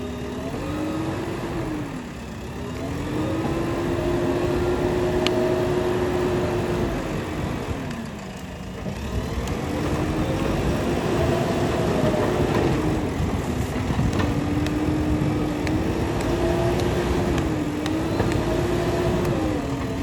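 JCB 3DX backhoe loader's diesel engine working under load, its pitch rising and falling repeatedly, with two clear drops back, about two and eight seconds in.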